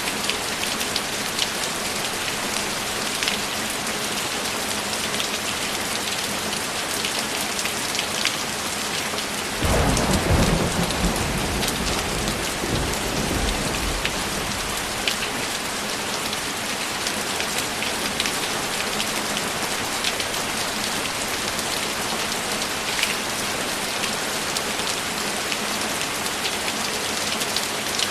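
Steady heavy rain falling on a surface, with sharp drops ticking through the hiss. About ten seconds in a single roll of thunder breaks in suddenly, deep and loud, and dies away over several seconds.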